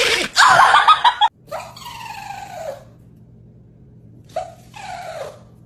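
A dog's vocal sounds: a sharp, loud burst and a second rough burst lasting about a second, then two pitched calls that fall in tone, one about a second and a half in and one near the end.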